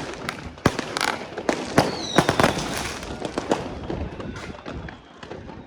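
Fireworks going off: a quick string of sharp bangs and crackles with a brief whistle about two seconds in, thinning to scattered faint cracks after about three and a half seconds.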